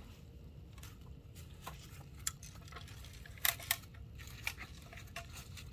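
A few short, sharp clicks and light knocks over a low steady hum: one a little past two seconds in, a quick pair about three and a half seconds in, another a second later, and the loudest right at the end.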